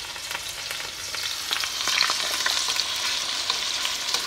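Marinated chicken thighs sizzling in hot olive oil in a frying pan, the sizzle getting louder about a second and a half in, with light clicks of metal tongs.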